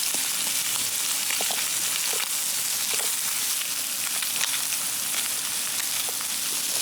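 Food sizzling and frying in a hot pan: a steady sizzle with light crackles.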